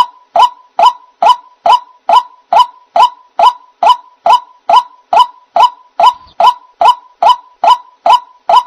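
White-breasted waterhen call: a short note repeated very evenly, a little over twice a second. It is the lure call (pikat) played to draw waterhens in for trapping.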